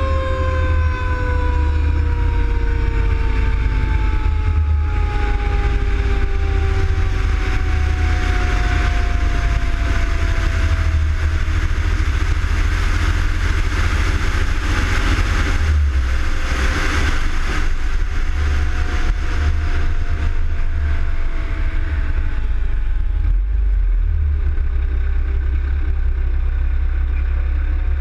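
Fire engine siren winding down, its tone falling slowly and steadily over many seconds. Under it runs the steady low rumble of the truck's engine and road noise.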